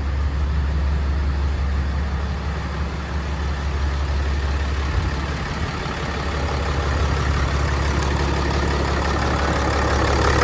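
2018 Ram 3500's 6.7-litre Cummins inline-six turbodiesel idling steadily, with a deep, even hum.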